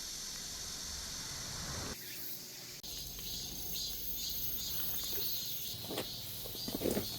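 Insects calling in summer: a steady high hiss for about two seconds, then a sudden change to rhythmic, pulsing high chirps. A few soft rustles or knocks come near the end.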